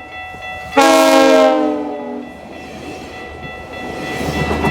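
Commuter train's air horn sounding one long chord about a second in, its pitch sliding down as it fades. The rumble of the passing train then grows louder toward the end.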